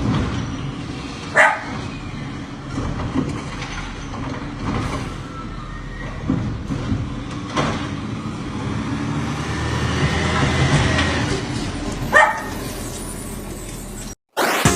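A dog barks a few times, sharp single barks several seconds apart, over a steady low rumble.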